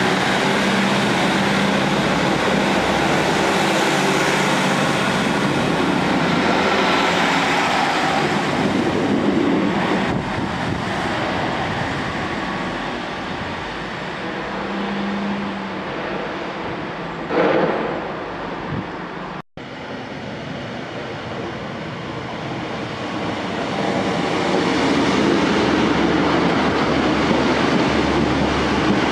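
Diesel multiple-unit passenger trains running through a station: steady engine and wheel-on-rail noise, with a short loud sound about midway and a louder pass-by as a train draws close near the end. The first train is a Class 156 diesel unit.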